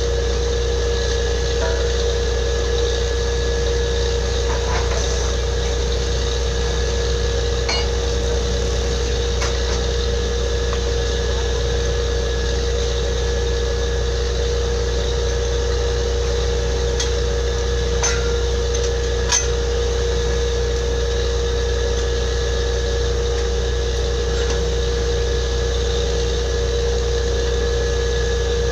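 Borewell drilling rig running steadily: a constant engine drone with a steady tone. A few scattered metallic clinks cut through it, the sharpest about 19 seconds in.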